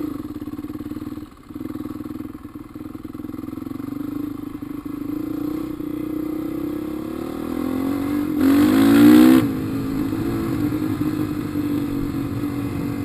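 Dirt bike engine running under way, with a brief drop about a second in and a hard rev about eight and a half seconds in, its pitch climbing before it settles again.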